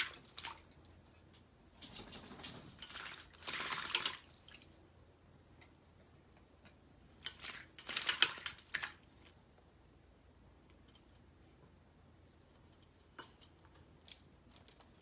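Indian ringneck parrot bathing, splashing water in spells of a second or two, with quiet stretches between them and a few light ticks near the end.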